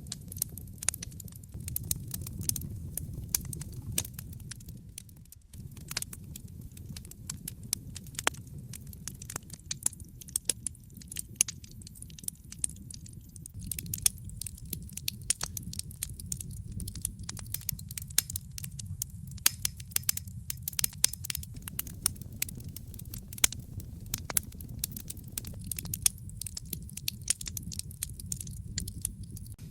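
Wood fire in a fireplace crackling: frequent sharp pops and snaps over a steady low rumble of the flames.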